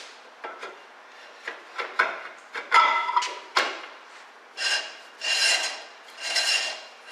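Drum brake parts clicking, then a steel brake drum scraping against the brake shoes three times, about a second apart, with a faint metallic ring.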